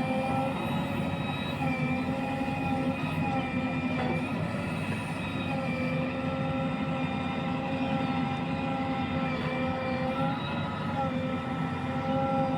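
Heavy diesel engine of a tractor or backhoe loader running steadily at high revs, its pitch dipping slightly now and then as the load changes.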